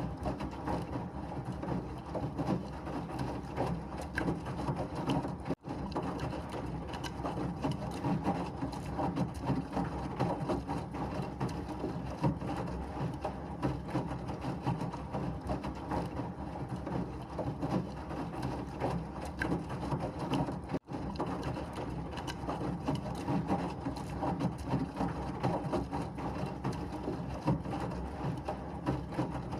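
Washing machine running steadily, a dense churning mechanical rumble, cutting out for an instant twice, about five seconds in and again about twenty-one seconds in.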